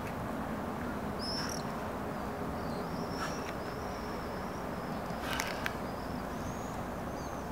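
A small bird chirping and whistling several times over steady outdoor background noise, with a couple of short clicks about five and a half seconds in.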